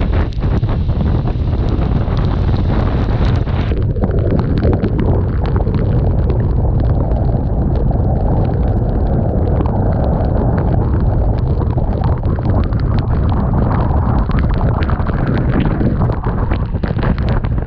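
Loud, steady wind buffeting on the microphone of a BMW R1200RT motorcycle moving at road speed in rain, with the bike's running noise underneath. The hiss at the top thins out about four seconds in.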